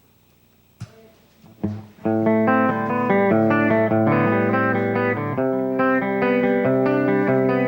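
Electric guitar starting a rock song's intro about two seconds in, ringing picked notes with a low bass note beneath, after a couple of short clicks.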